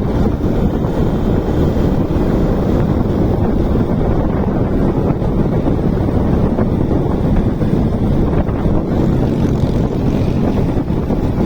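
Wind rushing over the microphone of a motorcycle rider riding at speed, a steady low rumble with the bike's running and road noise beneath it.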